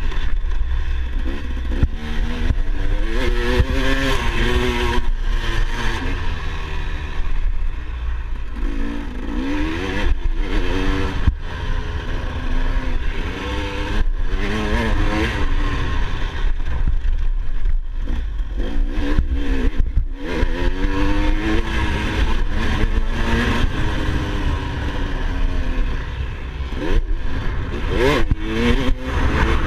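Dirt bike engine revving up and falling back again and again, as in riding through gears on a motocross track, over a steady low rumble.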